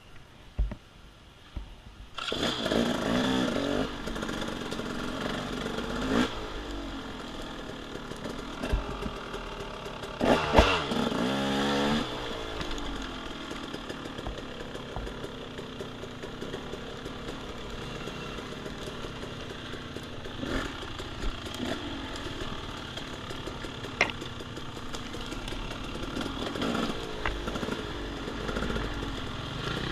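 Off-road dirt bike engine, quiet at first, then coming in sharply about two seconds in and running on with repeated rising revs, the strongest about ten to twelve seconds in. A few short knocks come in the second half.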